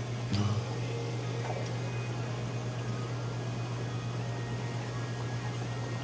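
Steady low hum of aquarium equipment, pumps and filters running, with a faint watery hiss and one short knock about half a second in.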